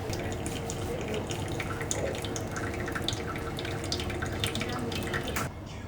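Water running from a tap into a sink, with small splashes and ticks, dropping away about five and a half seconds in.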